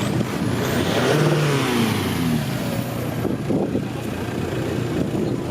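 A motor vehicle driving past, its engine note rising and then falling away about one to two and a half seconds in, over a steady low engine hum.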